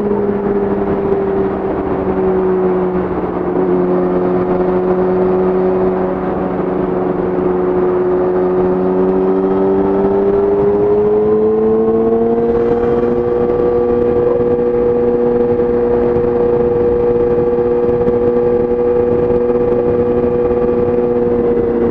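2017 Yamaha YZF-R6's inline-four engine breathing through an Akrapovic exhaust at steady highway cruise, its note easing down slightly, then rising a little about halfway through and holding at the higher pitch.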